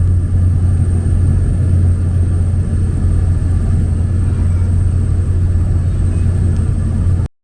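Steady drone of a small passenger plane's engine and propeller heard inside the cabin in flight, cutting off suddenly near the end.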